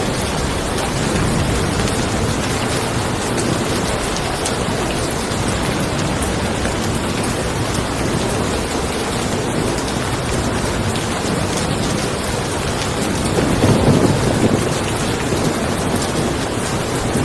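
Steady rain falling, with a low roll of thunder swelling briefly about three-quarters of the way through.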